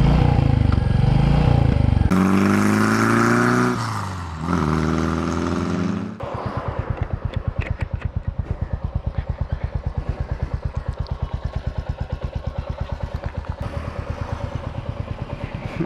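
Royal Enfield Classic 350's single-cylinder engine on the move: the engine note falls twice as the bike slows. About six seconds in it settles to idle, with an even thump of about seven beats a second.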